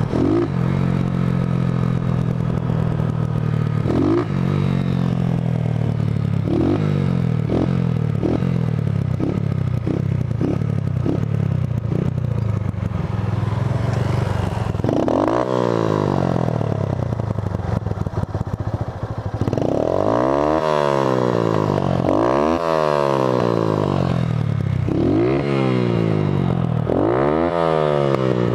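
Honda CG Titan 150's single-cylinder four-stroke engine running at road speed, then slowing with a quickening run of clacks. From about halfway it is revved hard again and again, each rev rising and falling over a couple of seconds.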